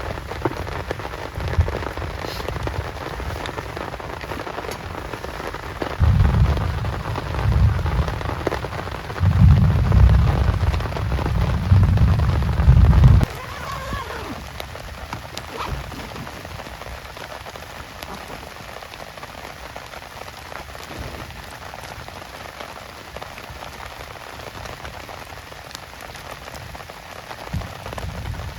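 Heavy rain falling steadily. For several seconds in the first half a low rumble swells over it, then cuts off abruptly.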